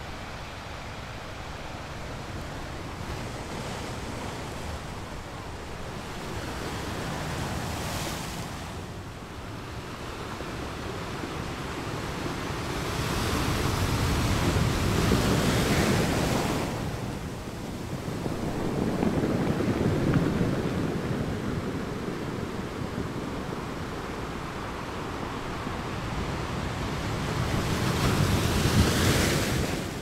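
Ocean surf washing in: a steady hiss of waves that swells into louder surges about halfway through, again a few seconds later, and just before the end.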